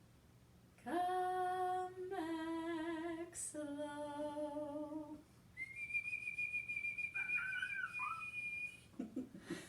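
A voice sings three falling notes, each held about a second, the middle one with a wobble. Then a single high, steady whistle is held for about three seconds.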